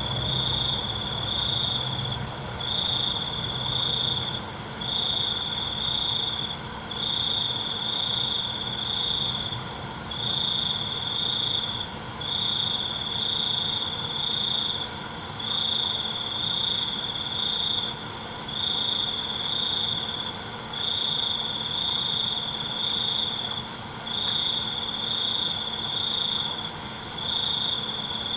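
Crickets chirping in chorus: one loud cricket trills in phrases about a second and a half long with short breaks, over other insects' steady, higher-pitched trills.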